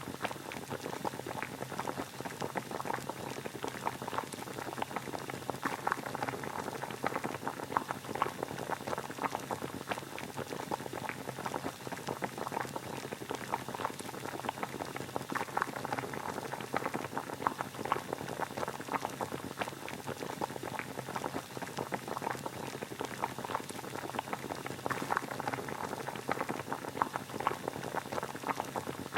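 Water boiling steadily: a dense, irregular bubbling and popping.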